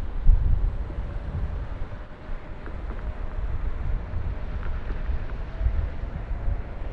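Wind buffeting the microphone in gusts, a heavy low rumble, with a faint steady hum underneath.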